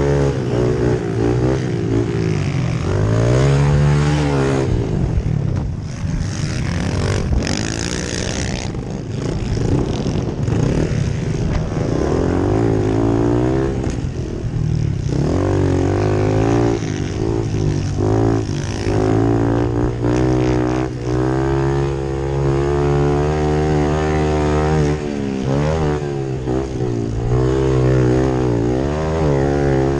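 Pit bike engines running on track, the revs climbing and dropping again and again as the bikes accelerate and shift. A brief hiss comes about eight seconds in.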